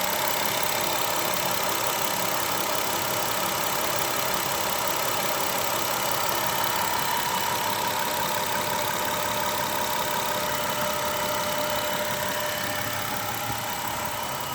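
Car engine idling steadily with a persistent rapid ticking, still there after a restart from an hour's rest; the owner does not know its cause.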